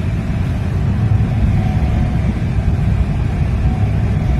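Steady low rumble of road and tyre noise inside the cab of a moving Tesla Cybertruck, an electric truck with no engine sound.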